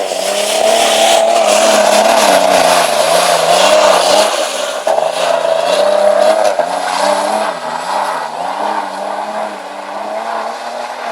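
Off-road vehicle engine revving under load, its pitch rising and falling again and again as the throttle is worked over a washboard course of bumps; it fades over the last few seconds.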